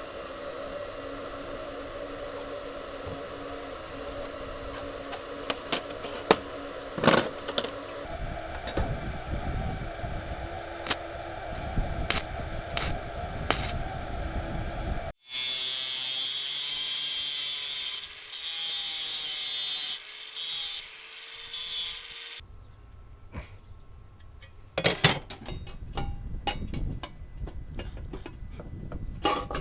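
A power tool running with a steady hum and scattered clicks. After a sudden cut, a higher-pitched steady hiss of cutting work follows, and near the end come sharp knocks and clatter of metal parts being handled.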